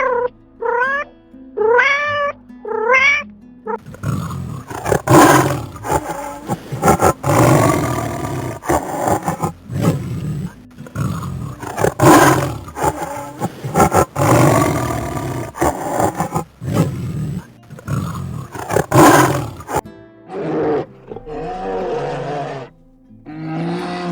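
Big cat growling and roaring in repeated throaty bursts, most of them close together in the middle. The opening seconds hold four short upward-sweeping cat calls.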